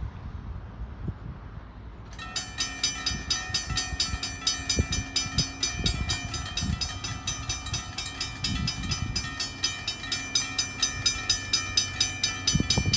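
Train on the rails. About two seconds in, a rapid, even metallic ringing of about four strokes a second begins and carries on over the train's low rumble.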